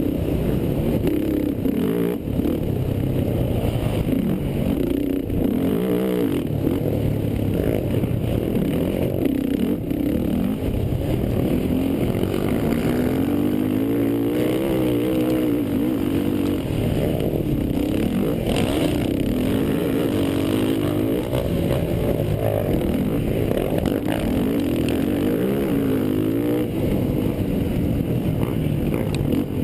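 Racing quad (ATV) engines running hard, their pitch repeatedly climbing and dropping as the throttle is opened and closed.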